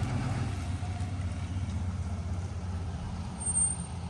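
A motor vehicle's engine running nearby, a steady low hum, with a brief high squeal about three and a half seconds in.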